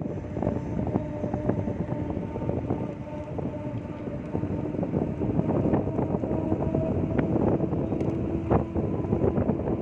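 Ola electric scooter riding along a road: a steady motor whine over continuous road and tyre rumble, with frequent small clicks and knocks from bumps and rattles.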